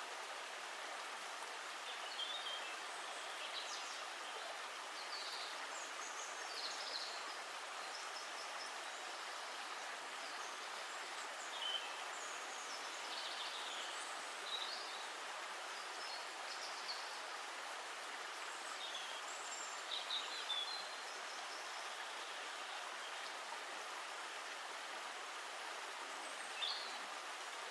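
A steady rush of flowing water with short, high bird chirps scattered throughout.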